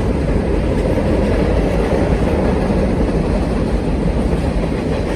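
Norfolk Southern freight train rolling past, a loud, steady rumble of wheels on rail.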